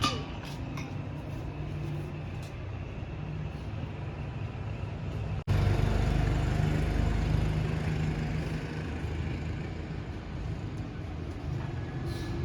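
Steady low mechanical rumble with a hum, like a running engine or nearby traffic. It drops out briefly about five seconds in and comes back louder.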